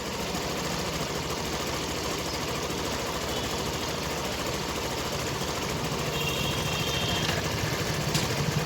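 TVS Scooty Pep Plus's small single-cylinder four-stroke engine running at a steady idle with an even beat after its service. It grows a little louder toward the end.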